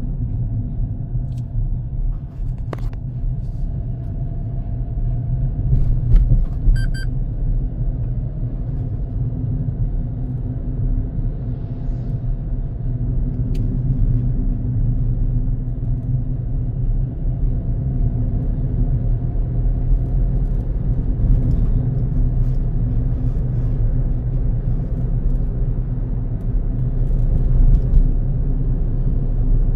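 Car being driven: steady low road and engine rumble, with a few sharp clicks and a brief high beep about seven seconds in.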